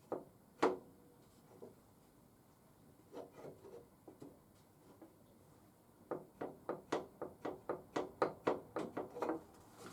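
Wooden alignment board knocking on motorcycle fork legs: a couple of single knocks, then a quick run of taps about four a second as the board rocks. The rocking is the sign that the fork legs are out of line, with quite a bit of twist in them.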